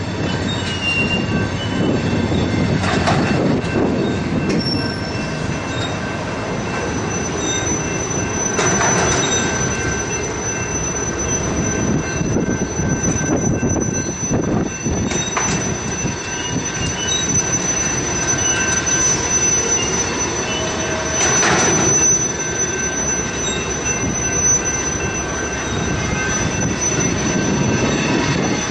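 Rail-laden freight flatcars rolling slowly past, a steady rumble with thin, high wheel squeal. A louder clank comes about every six seconds.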